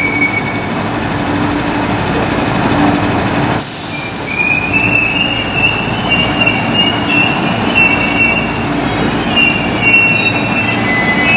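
East Rail line electric train pulling slowly into an underground platform, its wheels squealing in high, wavering tones over a steady hum. A short sharp hiss cuts in a few seconds in.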